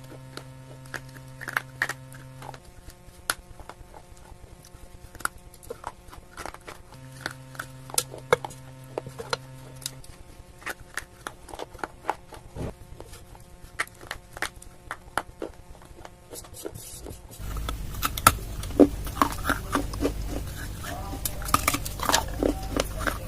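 Dry clay crunching and crackling as it is bitten and chewed close to the microphone, with many sharp irregular crunches. Soft background music with held chords plays underneath. About 17 seconds in, the sound cuts to a louder, fuller clip with denser crunching.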